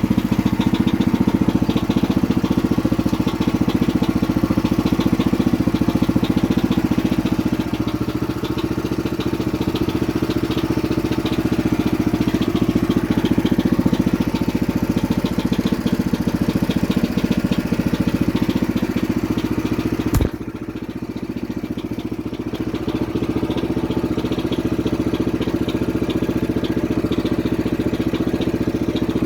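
Engine of a homemade tractor running steadily. About two-thirds of the way through there is a sharp click, the sound drops a little for a couple of seconds, then it comes back up.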